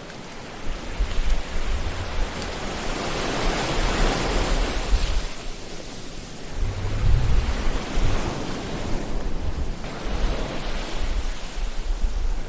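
Ocean surf: waves washing in and drawing back, swelling to a peak about four seconds in and building again later, with low rumbles underneath.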